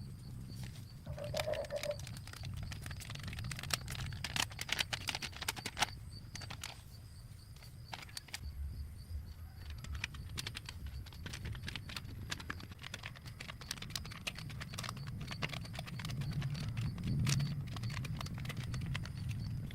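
Irregular light clicks and taps, many in quick succession, over a steady low rumble.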